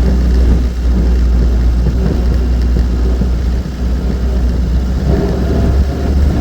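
Austin 7's small four-cylinder engine running steadily with a deep, loud drone.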